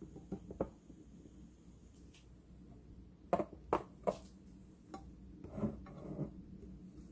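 Light clinks and knocks of kitchenware, dishes and utensils being handled. Three sharp clinks come close together about three and a half seconds in, with a looser cluster of knocks a couple of seconds later.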